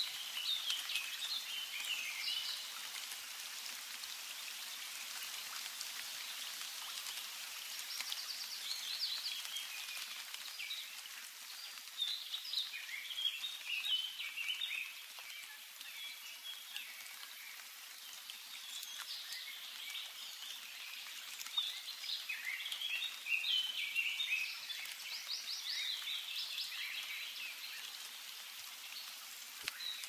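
A bird singing phrases of quick, high notes, a few seconds apart with pauses between them, over a steady background hiss.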